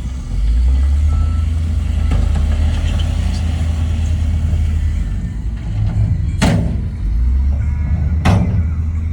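Heavy diesel engine of earthmoving machinery running under load, its rumble picking up just after the start. Two short, sharp bursts of noise come about six and a half and eight seconds in.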